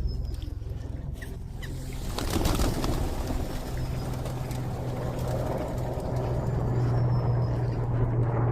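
Outdoor ambience: a steady low hum joined by a rushing noise about two seconds in, with a few faint high bird chirps.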